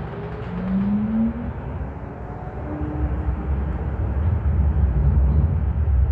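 VTA light rail train running, its low rumble growing louder through the second half, with a short rising whine about half a second in and a brief steady tone near the middle.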